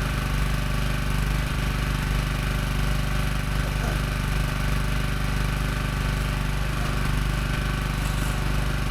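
Engine of a Logosol B1001 hydraulic bandsaw mill running steadily at a constant speed.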